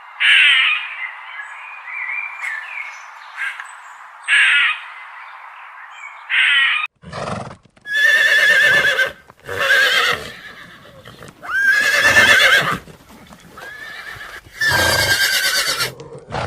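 Short bird calls over a steady background hiss for the first several seconds. Then, after about seven seconds, a horse neighs and whinnies loudly about five times, each call wavering in pitch.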